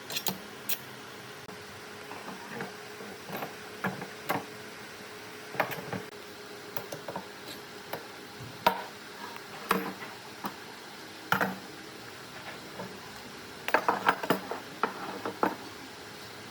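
Scattered light knocks and clinks at irregular intervals, with a quick cluster of them near the end, over a faint steady hum.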